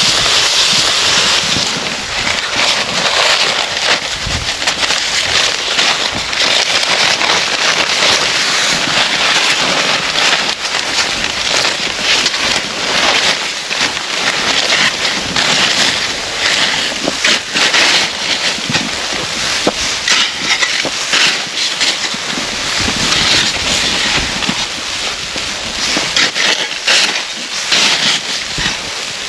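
Strong wind in a snowstorm rushing steadily, a loud continuous hiss that rises and falls in gusts.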